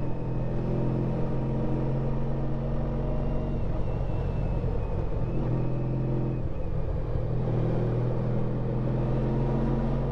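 Honda ST1300 Pan European's V4 engine running steadily under way, heard from the moving motorcycle. The note breaks briefly about six and a half seconds in, then settles again.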